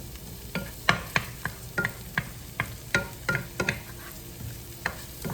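Shallots sizzling in hot oil in a pan while a utensil stirs them, knocking and scraping against the pan in quick, irregular strokes, some with a short metallic ring.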